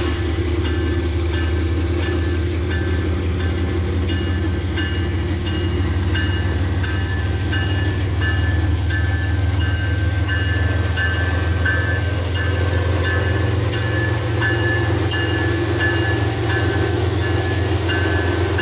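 A CSX freight train passes behind a GE diesel locomotive, number 3192: a steady low engine drone with the rumble of the train rolling by. Above it a bell rings steadily, about once every 0.7 seconds.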